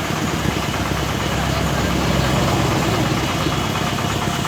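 Engine of a brick-breaking machine running steadily with a fast, even throb.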